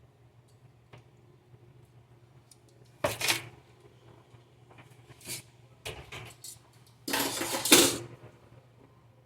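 Kitchen dishes and utensils clattering: a few sharp clinks and knocks, then a louder rattle lasting about a second near the end.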